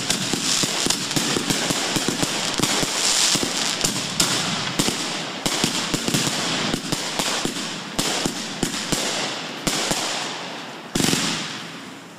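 Fireworks going off in a dense, rapid crackle of many sharp pops a second, thinning and fading toward the end. A single louder bang comes about eleven seconds in and dies away.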